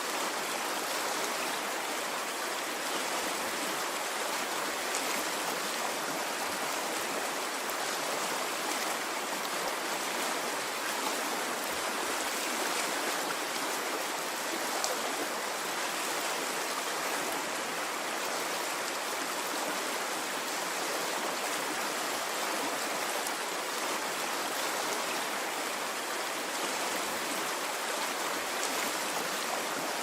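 Running stream: water flowing and splashing in a steady, unbroken rush with no rise and fall.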